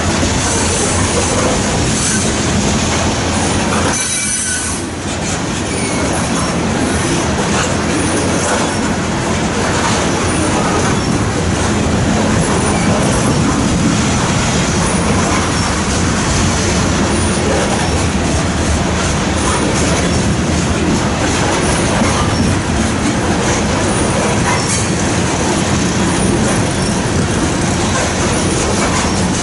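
Loaded coal hopper cars of a freight train rolling past, with the steady rumble and clatter of steel wheels on the rails. The sound dips briefly about four seconds in.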